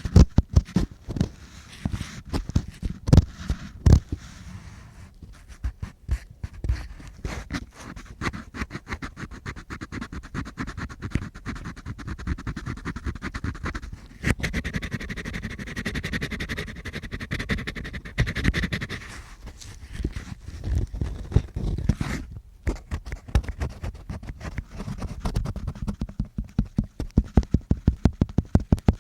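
Close-up ear-cleaning sounds: an ear-cleaning tool scratching, rubbing and clicking against the microphone, with low thuds. A steadier rubbing in the middle, then a quick run of regular taps near the end.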